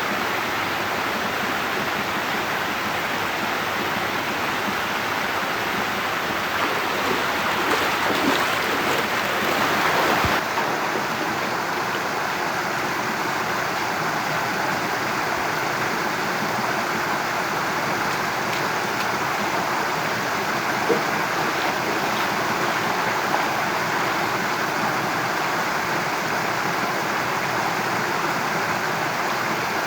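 Steady rushing noise like running or spraying water, its hiss easing abruptly about ten seconds in.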